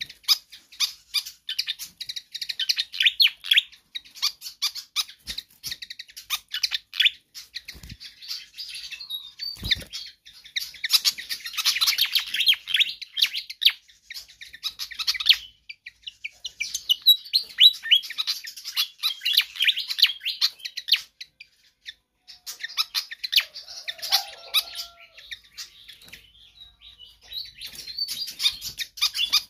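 Fantail flycatcher (sikatan kipas) singing non-stop: rapid, high chattering and chipping notes in long bursts, broken by brief pauses about 8, 15, 21 and 26 seconds in.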